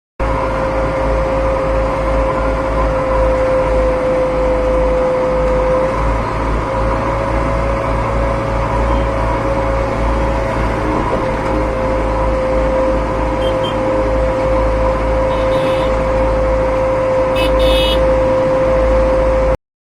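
Heavy machine engine running loudly at a steady speed, with a constant high whine over a low rumble; it starts and cuts off abruptly.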